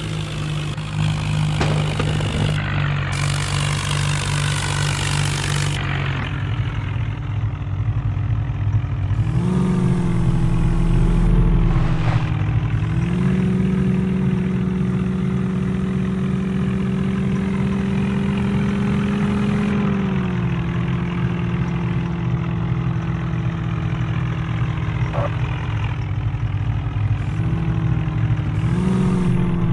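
Heavy diesel engine running steadily. It revs up about ten seconds in, holds the higher speed for several seconds and drops back, then rises briefly again near the end.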